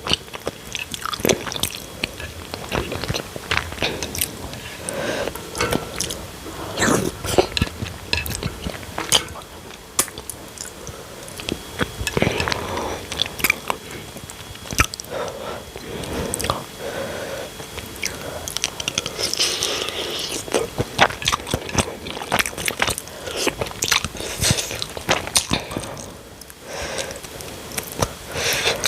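A person chewing and biting close to the microphone while eating banku with palm nut soup and cucumber: a steady run of irregular wet mouth clicks and crunchy bites.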